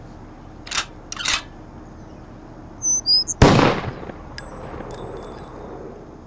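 Two sharp clicks, then a bird's short high chirps, cut off by a single loud shotgun blast with a long fading tail. Thin high-pitched tones ring on briefly after the shot.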